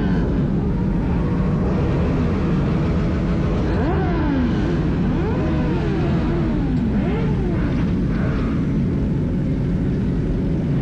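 Several motorcycle engines running together with a deep steady rumble, riders blipping the throttles so the pitch repeatedly rises and falls in overlapping revs.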